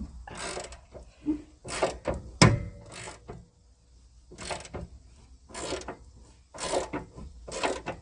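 Hand ratchet clicking in repeated short strokes, about one a second, as the bolts holding a car door's hinges are worked loose. A single sharp knock about two and a half seconds in.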